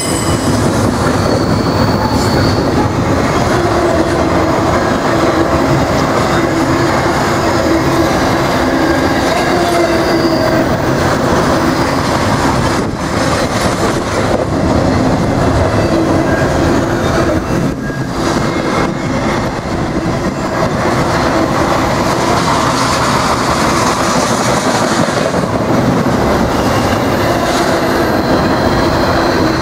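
Double-stack intermodal train's loaded well cars rolling past close by: a steady, loud rumble of steel wheels on rail, with some squealing tones from the wheels.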